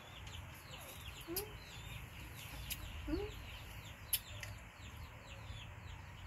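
Birds calling: a short rising low call twice, about 1.3 and 3 seconds in, over many quick, high, falling chirps. Two sharp clicks cut in, the second, about 4 seconds in, the loudest sound.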